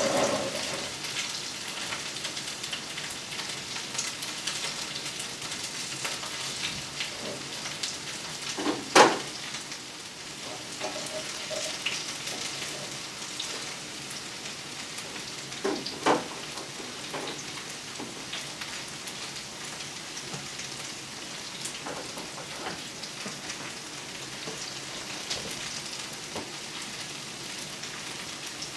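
Sliced okra frying in hot oil in a skillet on its second side: a steady sizzle and crackle. A couple of louder utensil knocks on the pan come about nine and sixteen seconds in.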